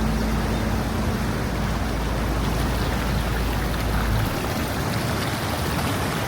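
Waterfall water rushing: a steady, even roar with a deep rumble underneath that drops away about four seconds in.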